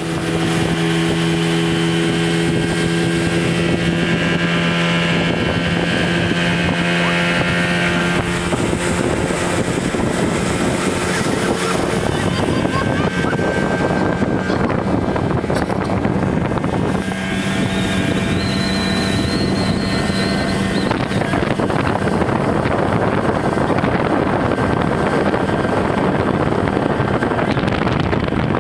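A speedboat's engine running steadily at speed, with the rush of water and wind buffeting the microphone. Past the middle the engine note rises slightly for a few seconds and a high whine comes in.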